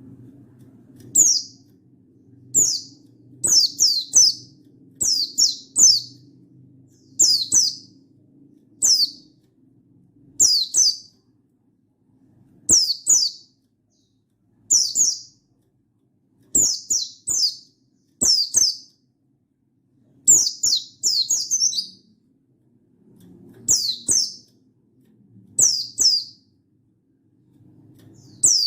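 Buxtoni white-eye (pleci) giving its wild-type calls: short, high, downward-sweeping notes, singly or in quick pairs and triplets, every one to two seconds, over a faint low hum.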